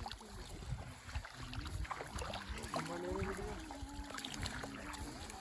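Faint voices of people talking in the background, loudest around the middle, over low rumble and a few small knocks.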